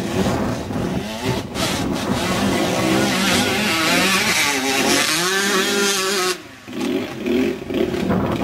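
Enduro dirt-bike engine revving hard, its pitch rising and falling with the throttle. About six and a half seconds in it briefly drops off, then picks up again.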